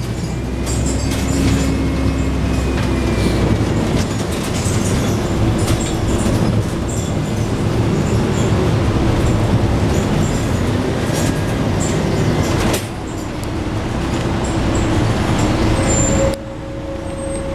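Inside a Scania N113 double-decker bus on the move: the diesel engine and driveline run steadily under road noise, with small rattles of the bodywork. The sound drops off suddenly twice near the end.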